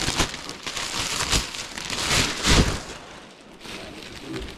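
Rustling and crinkling of old things being handled and sorted, with small clicks throughout and a louder rustle about two and a half seconds in.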